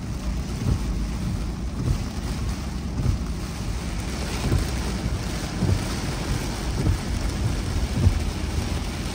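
Car driving on wet road in the rain: steady rain and tyre noise with a low rumble, and a dull low thump about once a second.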